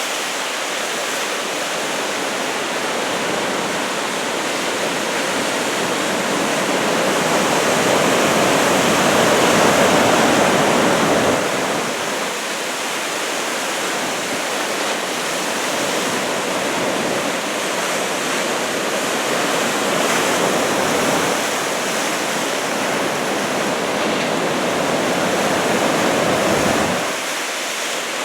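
Heavy ocean surf from a typhoon swell of about 2 m waves, breaking and rushing in as a steady wash of noise that swells twice, about a third of the way in and again near the end, before easing.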